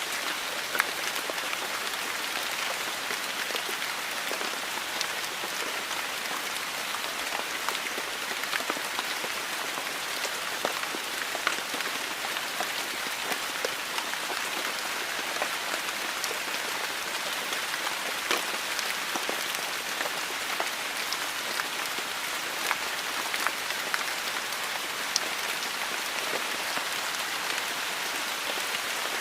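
Heavy rain falling steadily: a dense hiss dotted with many sharp individual drop hits.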